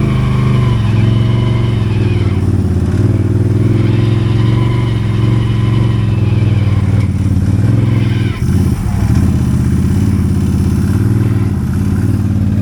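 ATV engine running steadily at moderate throttle, its pitch rising and falling slightly, with a brief drop about eight seconds in.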